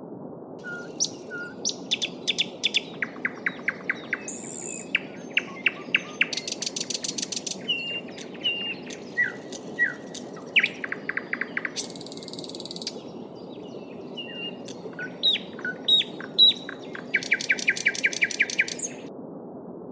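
Small songbirds singing over the steady rush of a babbling stream: a mix of short chirps, brief whistles and rapid trills of evenly repeated notes, the last trill running near the end before the birds fall silent and only the water is left.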